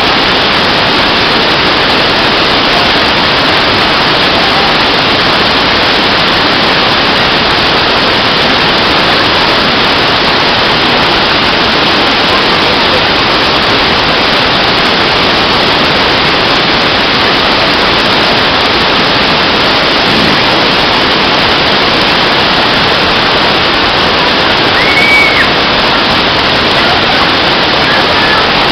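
Steady, loud rush of running water, like a waterfall or heavy flow, even and unbroken. A brief high chirp cuts through it near the end.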